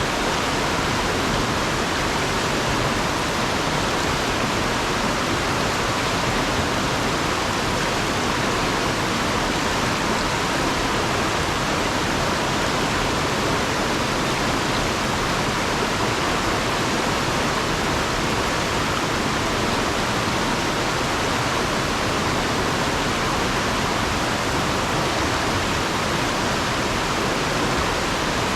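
Fast-flowing river water rushing over and around rocks: a steady, unbroken rush with no separate events.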